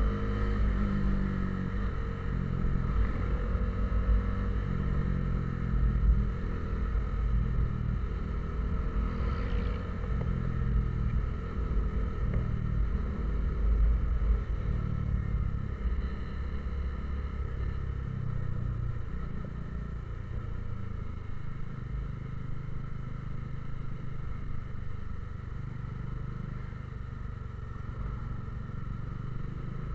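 A road vehicle's engine running while driving, with steady road rumble and engine pitch rising and falling as it changes speed.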